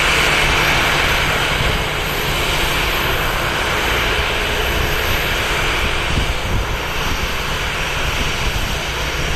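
Jet engines of an inbound Southwest Airlines Boeing 737 running with a steady rushing roar and low rumble, easing slightly about two seconds in.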